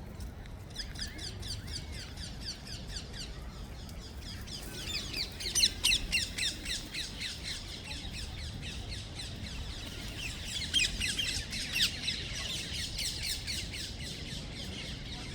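A flock of parakeets calling: many rapid, high, overlapping calls, with louder calls about five to six seconds in and again around eleven to twelve seconds.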